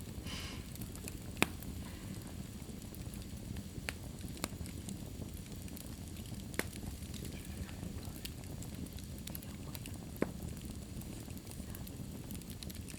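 Wood fire burning in a fireplace: a steady low rumble of flames with a brief hiss at the start and about five sharp crackles and pops, the loudest about a second and a half in and another near ten seconds.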